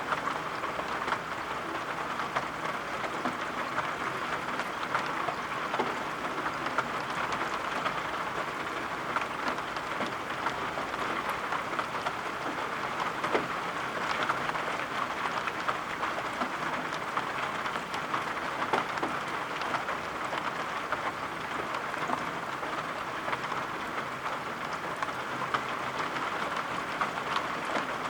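Steady rain falling, a constant even rush dotted with many small sharp ticks of drops striking a surface.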